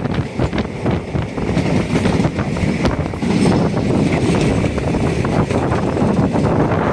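Passenger train running at speed, heard from inside the carriage: a steady rumble of wheels on the rails, with wind buffeting the microphone at the open window.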